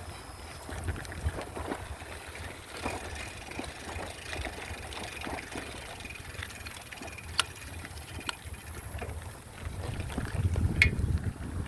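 Wind buffeting the microphone in a low rumble, with scattered small clicks and rattles, getting louder near the end.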